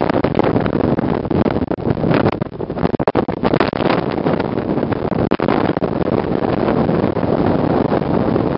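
Strong gusting wind buffeting the microphone: a loud, unsteady rumble that flutters and dips from moment to moment.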